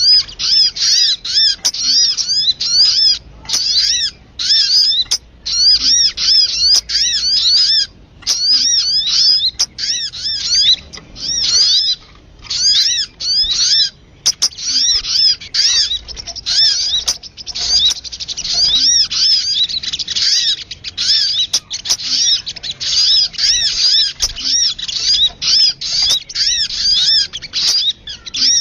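Sogun bird calls used as a lure sound: quick, high chirps repeated in long rapid runs, several notes a second, broken by brief pauses.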